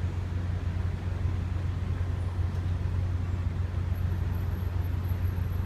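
Ferry's engines running with a steady low drone and an even rushing noise.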